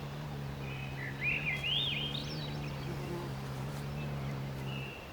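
Hummingbirds feeding: a steady low hum of wingbeats that stops near the end, with a run of short, high twittering chirps about one to two and a half seconds in.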